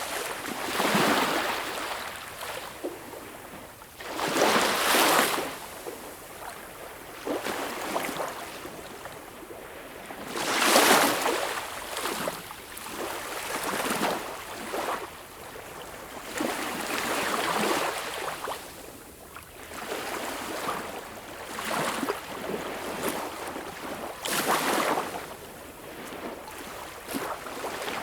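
Sea waves washing in and breaking, a steady rush of water that swells into a loud surge every few seconds, the strongest about four and eleven seconds in.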